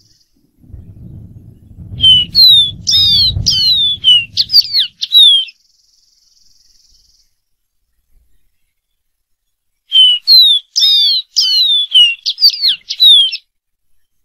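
Dark-throated seedeater singing: two phrases of about three seconds each, quick runs of sweet, down-slurred whistled notes, separated by a pause of several seconds. A low rumble runs under the first phrase.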